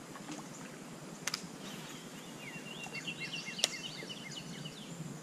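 A bird singing a quick run of high, down-slurred chirps about two seconds in, over a faint steady outdoor hiss, with a couple of light clicks.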